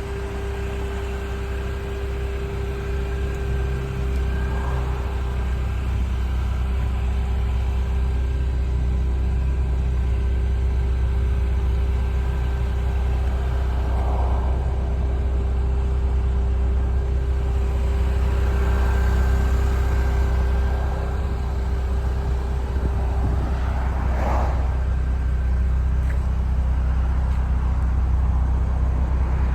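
2006 Mini Cooper S running, a steady low rumble with a faint steady hum over it that stops a little over twenty seconds in.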